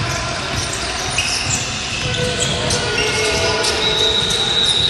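Basketball game play on a gym floor: a ball bouncing and sneakers squeaking in a large hall, with scattered short knocks. A high steady tone starts near the end.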